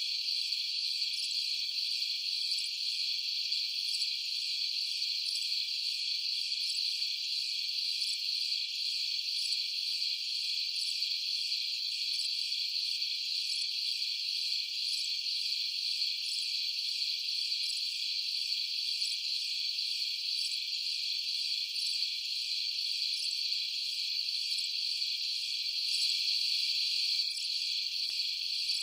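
Steady chorus of night insects, a dense high-pitched trilling that goes on without a break.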